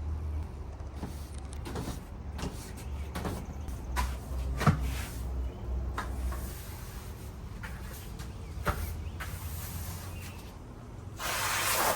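Scattered knocks and clicks of porch chairs being handled and cleaned, over a low hum, with one sharp knock about halfway through. A steady hiss starts near the end.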